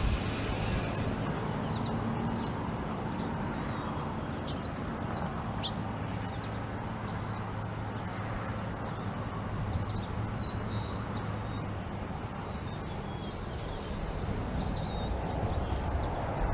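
Small birds chirping and twittering in short high calls scattered throughout, over a steady low mechanical hum.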